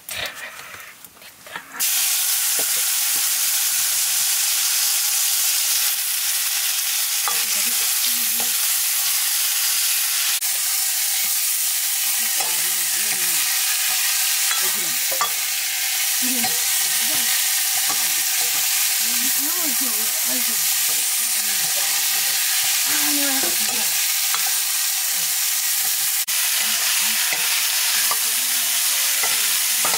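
Sliced vegetables dropped into hot oil in an iron wok over a wood fire: a sudden loud sizzle about two seconds in that stays steady, with a metal ladle stirring and scraping the pan.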